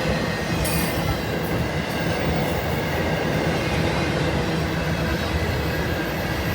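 A train rolling past: a steady rumble of wheels on the rails, with faint high steady tones over it.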